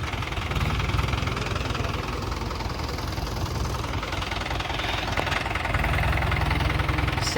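Tractor diesel engine running with a steady low chugging, getting louder about six seconds in.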